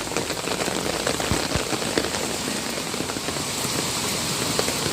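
Heavy rain pouring down steadily, a dense patter of drops striking hard surfaces.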